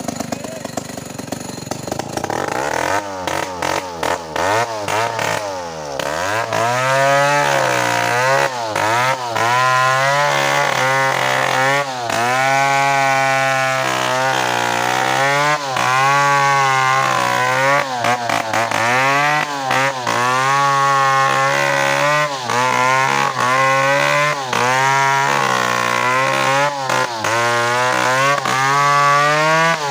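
Two-stroke chainsaw running at a low speed, then opened up about two seconds in. It stays at high revs, its pitch dipping and recovering over and over as it works through a coconut trunk.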